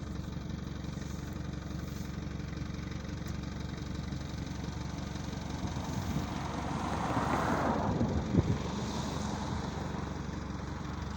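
Car engine idling steadily, a low hum throughout. A broad swell of noise rises and fades again about seven to eight seconds in.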